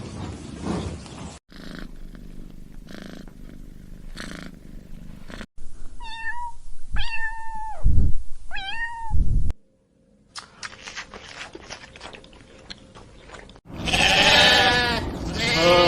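A run of short animal clips with hard cuts between them: in the middle a domestic cat meows three times, the last call falling in pitch, and near the end loud bleating begins, typical of a sheep.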